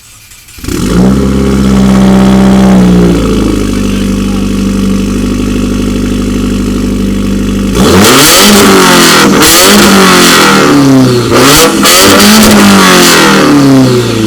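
2015 Subaru WRX's turbocharged flat-four, through a catted J-pipe and straight 3-inch catback exhaust, starts up suddenly at a raised cold-start idle, settles to a steady lower idle, then is revved up and down several times. Very loud and raspy.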